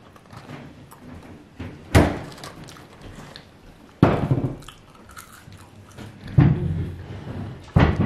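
A person eating french fries, chewing, broken by four sudden loud thuds about two seconds apart.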